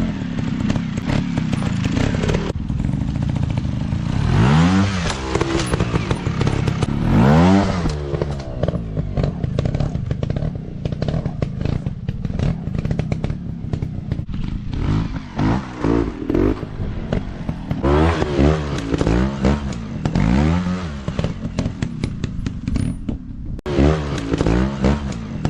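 Small dirt-bike engine revving in repeated throttle bursts, its pitch sweeping up and falling back again and again, with a quick run of blips in the second half. Clattering and scraping sound along with it.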